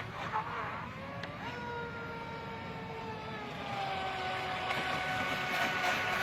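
Radio-controlled model boat's electric outboard motor whining as the boat runs on the water, its pitch stepping up about a second and a half in and then sagging slowly.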